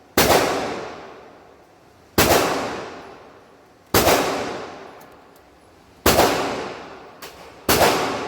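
Five single handgun shots fired at a steady pace, about two seconds apart, each report ringing out in a long fading echo. The gun is most likely the .50 AE Desert Eagle.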